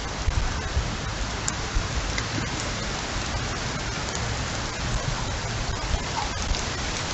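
Heavy rain falling steadily on surfaces during a windstorm, with gusts buffeting the microphone in low, uneven rumbles and scattered drips ticking.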